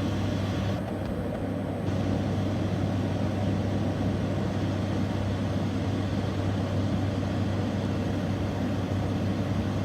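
Steady engine noise of a jet aircraft, a constant rushing sound over a low hum, dulling briefly in the upper range about a second in.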